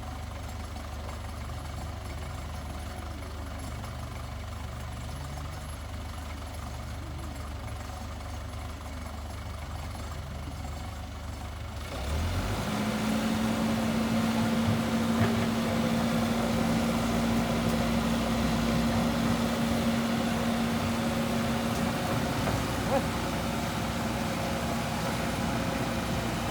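Heavy diesel engine idling low, then about twelve seconds in it speeds up and runs louder with a steady hum that holds to the end.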